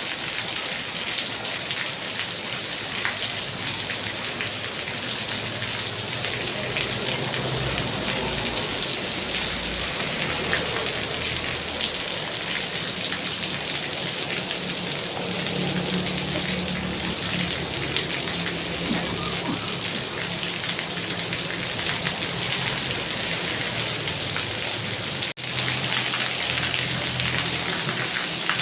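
Heavy rain falling steadily, a dense even patter, with a momentary break about 25 seconds in.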